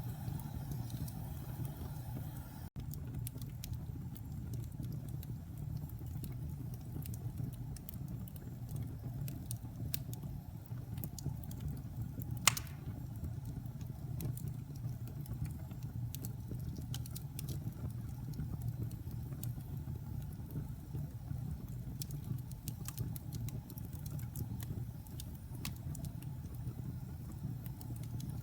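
Wood fire burning in a fireplace: a steady low rumble with scattered small crackles, and one sharp loud pop about twelve seconds in.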